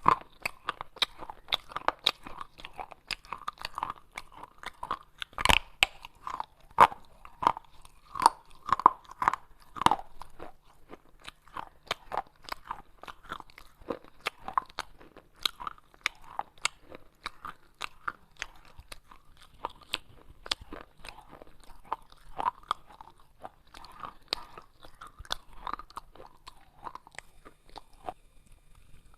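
A person biting and chewing pieces of baked clay pot: a dense run of sharp crunches and crackles, with a short lull near the end.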